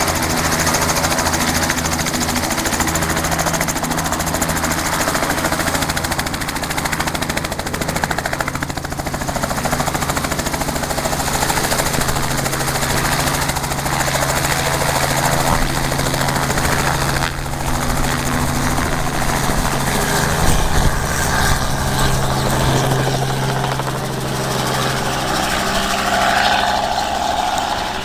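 Helicopter running, its engine and rotor making a loud, steady mechanical drone.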